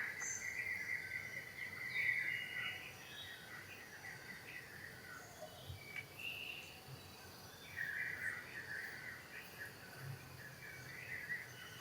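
Outdoor ambience of high chirping animal calls, strongest in the first couple of seconds and again for a few seconds near the end, over faint steady background noise.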